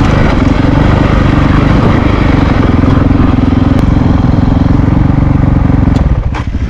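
Honda CRF450RL's single-cylinder four-stroke engine running steadily at low revs, engine braking down a steep, rocky descent. About six seconds in the sound drops abruptly to a quieter, choppier engine beat.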